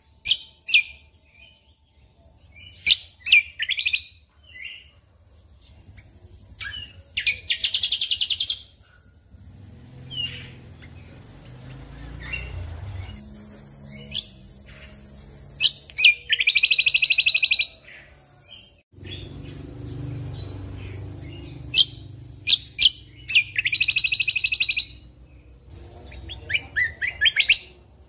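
Cucak kombo (kecial kombok) songbird singing loudly: sharp, quick chirped notes broken up by three fast buzzy trills of a little over a second each, spaced roughly eight seconds apart. A soft low rumble runs underneath for part of the time.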